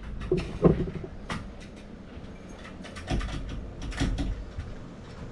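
A handful of separate sharp knocks of wood-frame roof work, irregularly spaced about a second or more apart.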